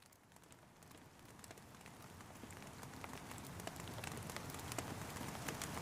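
Rain falling, a steady hiss with many individual drops ticking, fading in from silence and growing steadily louder.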